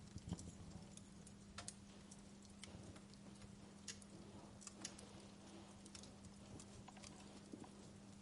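Faint fireplace crackle: irregular small pops and snaps from burning wood, over a steady low hum.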